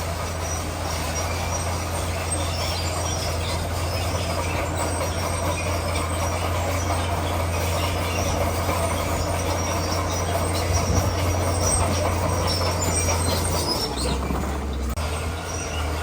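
Crawler bulldozer working: its diesel engine runs steadily under load while the steel tracks squeal. The engine note shifts briefly near the end.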